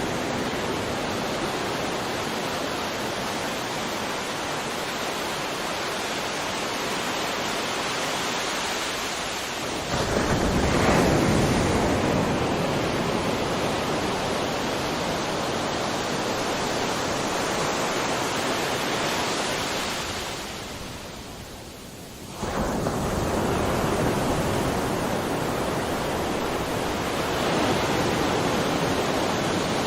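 Sea surf: a steady wash of waves, with a louder wave breaking about ten seconds in. About two-thirds of the way through it fades away briefly, then cuts back in suddenly.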